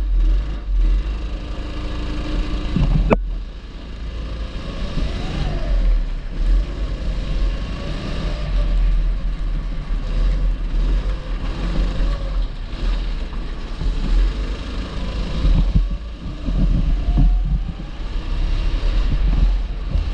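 A 270cc go-kart engine running on track, its pitch rising and falling as the throttle is opened and closed through corners, over a heavy low rumble. There is one sharp knock about three seconds in.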